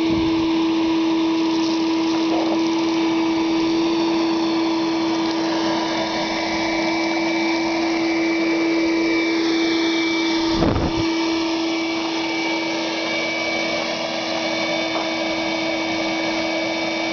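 Sears Craftsman 5 hp wet/dry shop vac running steadily, a constant motor whine over the rush of air through the floor nozzle as it sucks up sand and grit from the driveway. A brief low thump about ten and a half seconds in.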